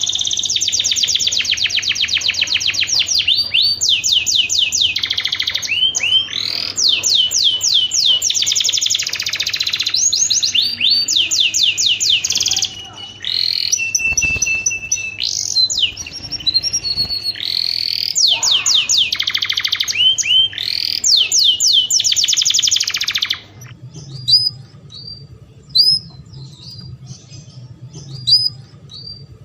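Canary singing, with long runs of fast, rolling trills in quick succession. About 23 seconds in, the song gives way to sparse single chirps.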